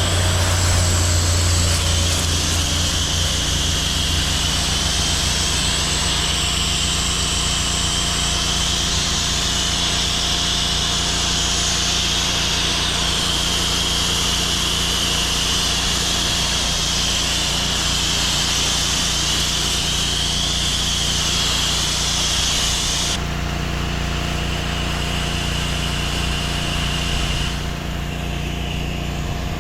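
Gas pressure washer engine running steadily while the wand sprays water in a hissing stream, wetting down a roof; the spray cuts off suddenly about three-quarters of the way through, leaving the engine running.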